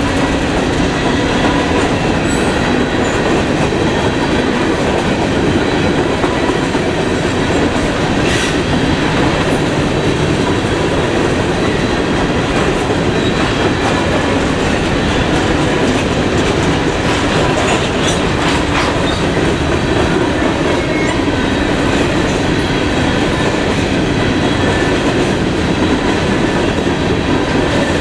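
Freight train rolling past close by: a steady rumble with the clatter of wheels over the rails.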